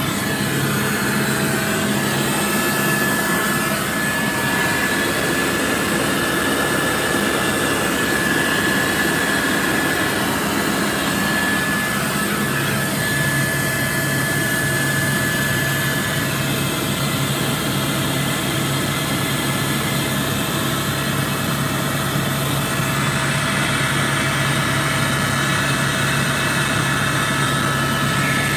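Helicopter in flight, its turbine and rotor noise steady and loud from inside the cabin.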